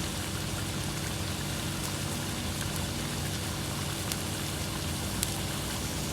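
Steady sizzling of a chicken Ceylon curry cooking in a pan, with a few faint clinks.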